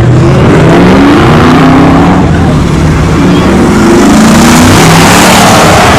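A car's engine revving hard in repeated rising pulls during a burnout, with a loud hiss of spinning tyres building toward the end.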